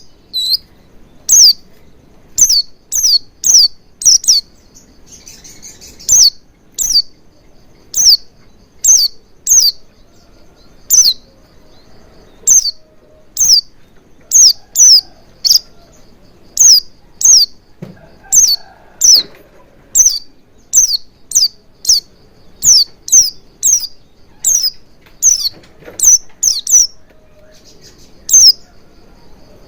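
Pleci (white-eye) giving sharp chirps over and over, each sliding down in pitch. They come about once or twice a second, often in quick pairs or threes, over a faint steady high twittering.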